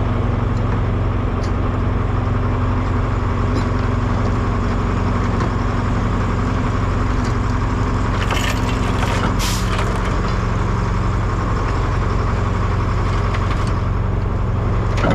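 Heavy diesel truck engine running steadily under way, with a short hiss a little past halfway.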